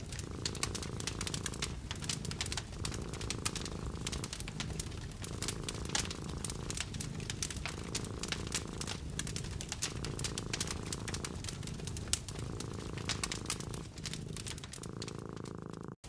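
A cat purring steadily, the low purr swelling and easing with each breath every second or two, over the dense snapping and crackling of a wood fire. The sound cuts out for an instant near the end.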